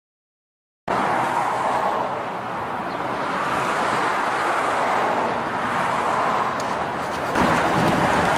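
Supercharged V8 of a chopped 1951 Chevy pickup running steadily. It starts abruptly about a second in and gets louder about seven seconds in.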